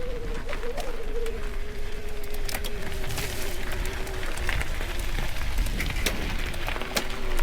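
Mountain bike being ridden on a rough, wet trail: a steady whine from the bike that slowly drops in pitch, scattered sharp knocks and rattles, and rumbling wind on the microphone.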